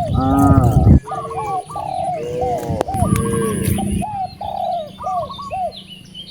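Birds calling in a rapid run of short calls that rise and fall in pitch, about two to three a second, with a louder, lower call in the first second.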